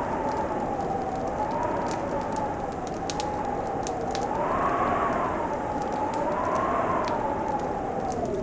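Wood fire crackling in a fireplace, with scattered sharp pops and snaps over a steady hiss. Under it, a howling winter wind slowly rises and falls in pitch and is loudest about five seconds in.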